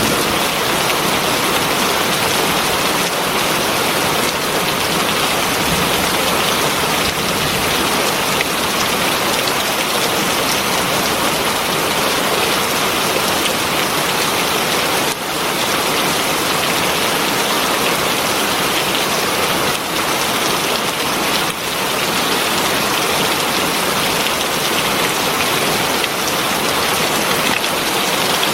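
Heavy rain falling steadily on a surface, a dense, even hiss of drops.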